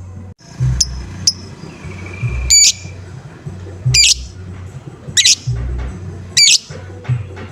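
Lovebird giving repeated sharp 'ngoek' calls, one about every second and a bit, each a quick sweep from high to lower pitch. A low repeating pulse runs underneath.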